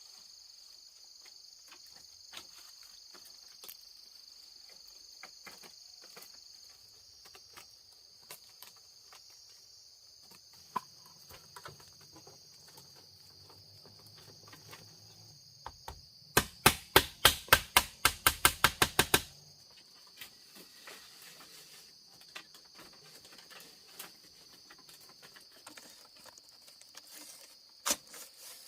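Steady high-pitched insect buzzing with scattered light clicks and knocks of hand work. About two-thirds of the way in comes a fast run of around twenty sharp knocks over three seconds, the loudest sound here.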